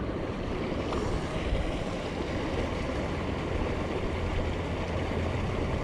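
Small mountain creek running: a steady, even rush of water with no breaks.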